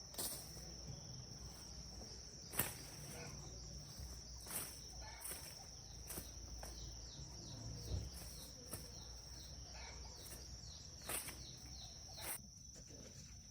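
Insects trilling in one steady high-pitched tone, with scattered sharp clicks and knocks every second or two.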